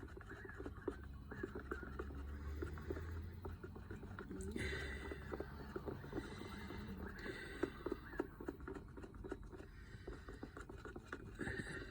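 Faint, irregular light clicks and taps from cups and a spoon being handled while mixing acrylic pour paint, over a low steady background hum.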